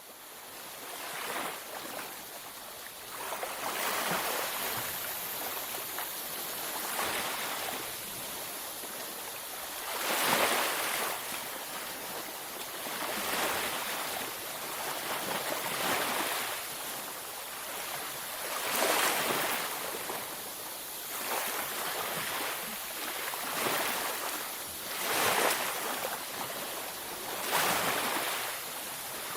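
Ocean waves breaking and washing on a beach, a steady surf noise that swells every few seconds as each wave comes in, fading in at the start.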